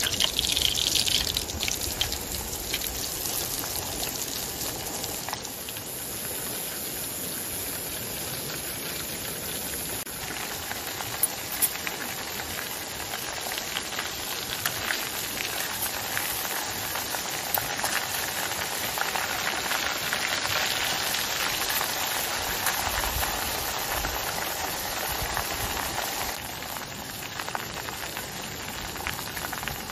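Floured chicken pieces deep-frying in hot oil in a small camping pot: a steady, dense sizzle and crackle of bubbling oil, loudest in the first second or two.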